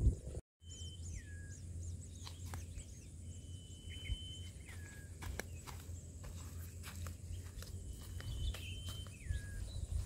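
Birds calling outdoors: a whistled call, a held note followed by a downward slur, sounds three times, with faint short high chirps around the first one, over a steady low rumble.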